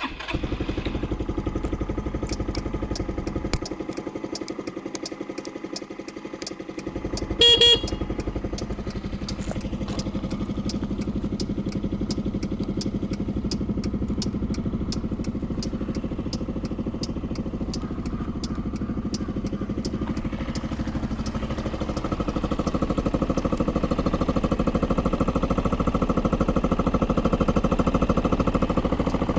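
Yamaha Majesty 125 FI scooter's single-cylinder four-stroke engine catching and settling into a steady idle, with a short horn beep about seven seconds in. From about two-thirds of the way through, the engine runs a little louder.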